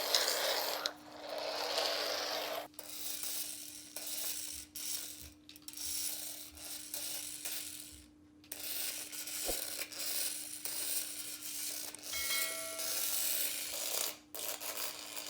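Tiny motor and gears of a 1/64-scale micro RC car whirring and ratcheting as it drives, stopping and starting every second or two.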